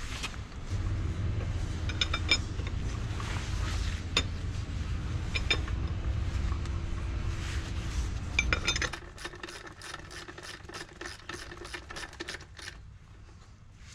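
Metal tools and parts clinking and rubbing during hand work on a scooter engine rebuild, with a low steady hum that stops about nine seconds in. A run of rapid clicks follows and ends near the end.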